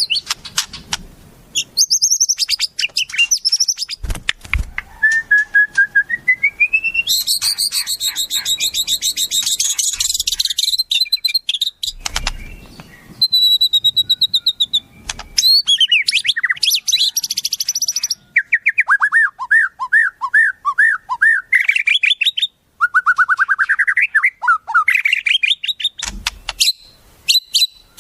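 Wild songbirds singing a string of varied phrases: whistled glides, a dense high buzzy trill, and runs of quick repeated rising notes.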